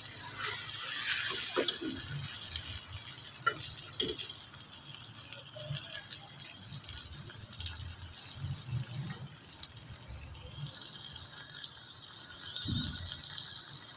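Okra with onion and tomato sizzling in oil in a metal pot, a steady hiss, with a few clicks of a metal spoon against the pot.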